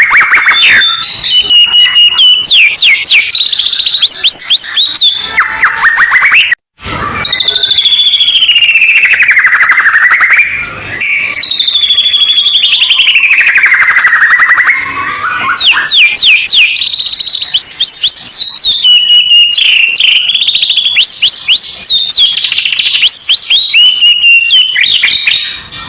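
White-rumped shama (murai batu) singing loudly and without pause: rapid trilled rolls and chattering notes mixed with long whistles that sweep down and back up. The song breaks off for a moment about seven seconds in.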